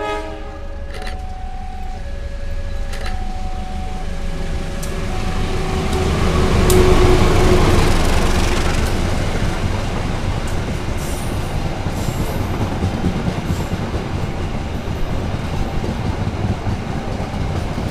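Passenger train passing on the adjacent track: a few short horn notes in the first five seconds, then the rumble of the coaches builds to its loudest about seven seconds in and runs on with the clickety-clack of wheels over the rail joints.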